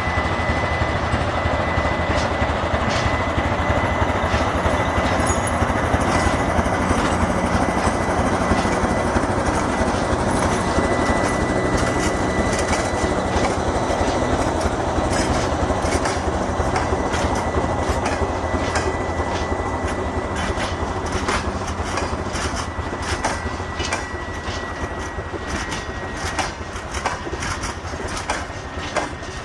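TEM2M diesel shunting locomotive moving off, its diesel engine running under load with a steady high whine, wheels clacking over the rail joints. The sound slowly fades in the second half as it pulls away.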